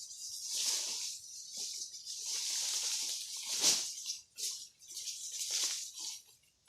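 Irregular dry rustling and crunching, in uneven bursts that die away near the end.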